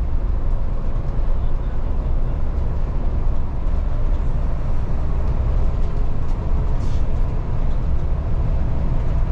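Volvo 8900 city bus heard from inside while under way: steady engine and drivetrain rumble with road noise.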